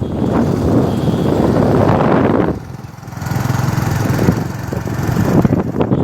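Motorcycle engine running while riding, dipping briefly about halfway through before picking up again.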